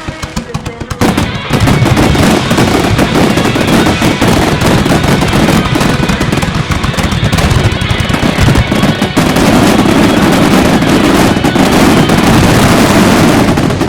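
Starmine fireworks firing a dense rapid-fire barrage, shells bursting so close together that they merge into a continuous rattle of bangs, starting about a second in. Music from the show's soundtrack plays underneath.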